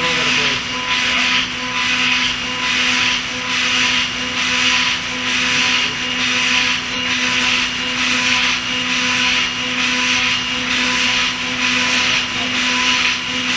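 CNC spindle running a half-inch five-flute solid carbide end mill at 15,000 rpm, high-efficiency milling P20 mould steel at light stepover and high feed. A steady whine under a cutting hiss that swells and fades a little more than once a second as the tool sweeps in and out of the cut.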